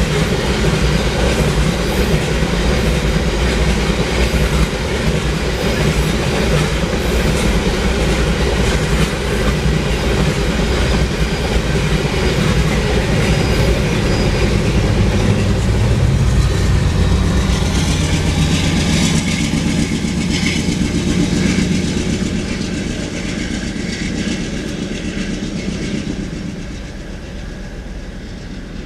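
Loaded ore cars rolling past on steel rails, with a steady clickety-clack of wheels over rail joints. Around the middle, a deeper diesel drone from the rear distributed-power locomotive, a GE Dash 9-44CW, swells as it passes. The sound then fades as the end of the train moves away.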